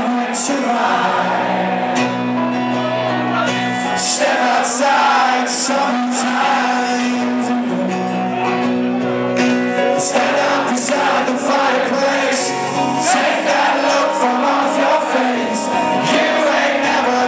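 Live rock band playing with a male lead vocal and held bass notes, and cymbal strokes keeping time, heard in a large hall.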